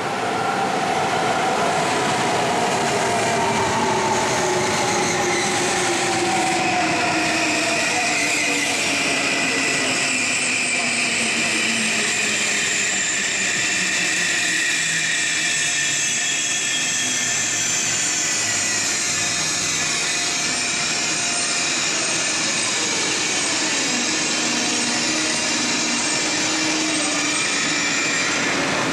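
A Deutsche Bahn ICE 3 high-speed electric train pulling into the platform and slowing. The loud running noise carries several whines that fall in pitch as the train slows.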